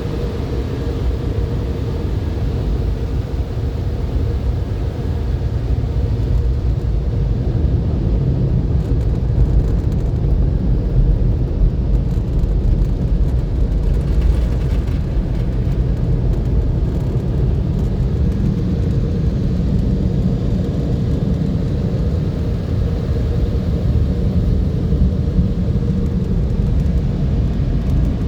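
MacNeil automatic car wash tunnel equipment running, a loud, steady low rumble that builds over the first few seconds and then holds.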